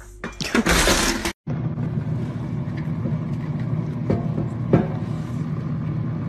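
A loud rushing noise that cuts off abruptly, then a steady low mechanical drone, like a running vehicle, with a few light knocks.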